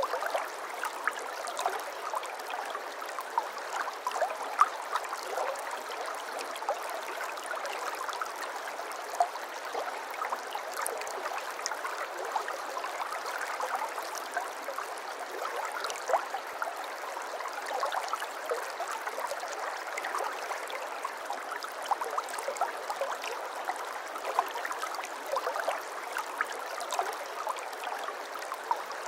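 Flowing water trickling and gurgling steadily, a small stream with many small splashing plinks.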